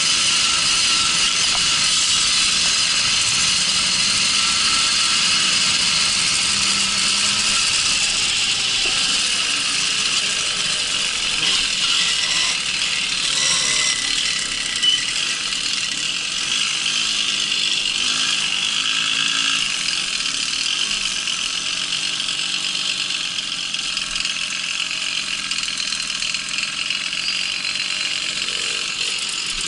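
Small two-stroke moped engine running steadily while riding, a high buzzing note that holds fairly level throughout.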